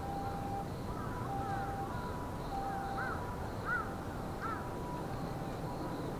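A bird calling three times in short rising-and-falling notes about halfway through, over a steady low background noise.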